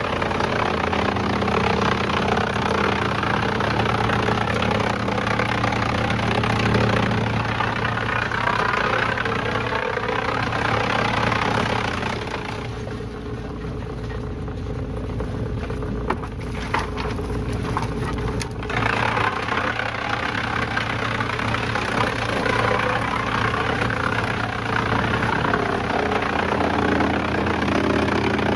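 Heavy engine-driven machinery running steadily, a low engine drone under a dense grinding noise. The grinding noise drops away for about six seconds midway, leaving the engine with a few clicks, then comes back.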